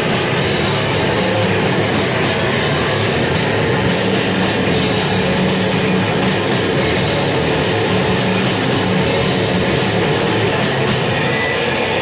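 Raw 1980s demo recording of grindcore, with distorted guitar, bass and drums playing loud and without a break as a dense wall of noise.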